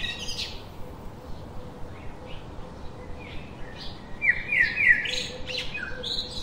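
Small birds chirping and twittering: a few chirps at the start, a quieter stretch, then a quick run of chirps from about four seconds in.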